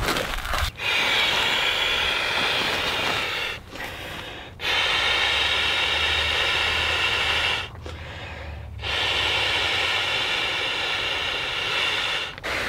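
A person blowing into an inflatable sleeping pad's valve by mouth to inflate it: three long, steady exhaled breaths with short pauses between them to breathe in.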